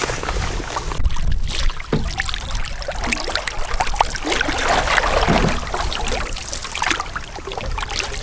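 Canoe paddle strokes dipping and splashing in the river water, with a louder swell of splashing near the middle.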